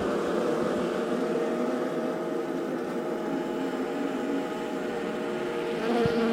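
Many honeybees buzzing together in a steady hum.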